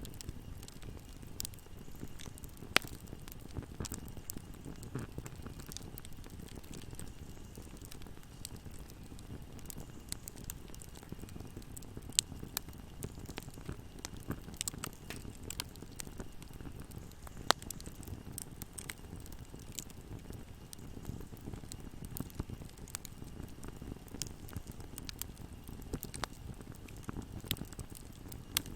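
Wood fire burning in a fireplace: a low steady flame rumble with irregular crackles and pops, three pops near 3, 12 and 17 seconds in standing out as the loudest.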